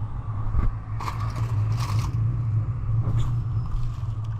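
Biting into and crunching a fried empanada close to the microphone, several crisp crunches over a steady low hum.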